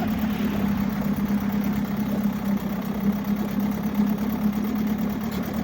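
Mercury 7.5 hp two-stroke outboard motor idling steadily.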